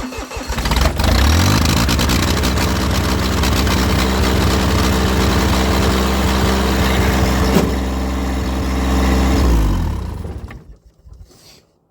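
Small Massey tractor's diesel engine cold-starting after the glow plugs: it cranks roughly, catches about a second in and runs steadily. Near the end it slows and stops.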